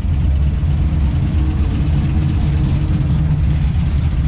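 A vehicle's engine idling, a steady low-pitched running sound.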